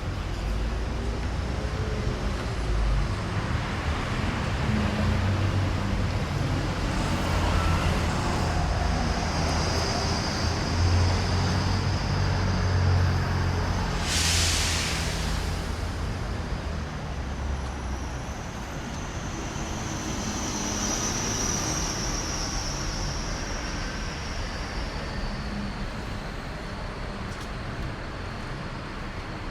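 Road traffic passing on a city street: a steady low engine rumble and tyre noise from vehicles going by, with a short, loud hiss about halfway through.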